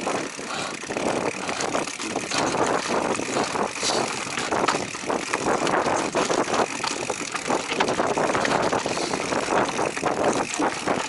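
A Giant Trance Advanced Pro full-suspension mountain bike rattling over rough dirt trail at speed. Tyre noise runs under constant clattering, with many quick knocks as the bike hits rocks and bumps.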